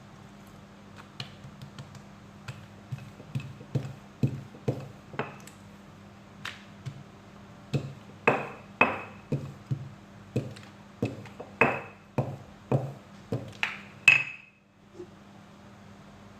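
Irregular slaps and taps of oiled paratha dough being stretched out and slapped down on a work surface, some hits ringing briefly. They come quicker and louder in the second half, the loudest just before the end, over a faint steady hum.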